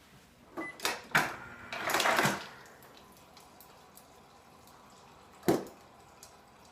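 Getting a drink of water: a few knocks and clinks, a short spell of water running or pouring, then a single sharp knock, like a glass set down, about five and a half seconds in.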